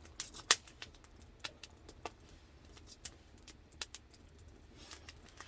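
Wood fire crackling, with scattered sharp pops about a second apart.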